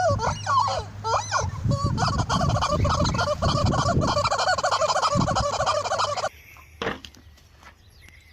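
Turkeys gobbling: a few separate gobbles, then a dense run of overlapping gobbles that cuts off suddenly about six seconds in.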